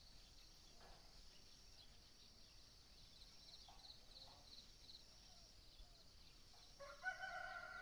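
Near silence with a faint steady high hiss, then near the end a chicken gives one long, drawn-out call.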